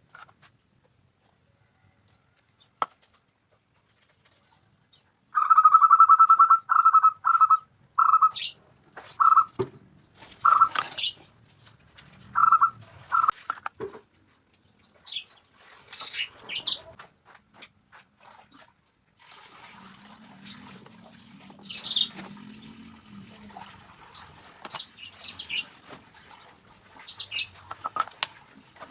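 Bird calls: a run of short notes on one pitch, repeated for several seconds, with scattered brief high chirps and light clicks.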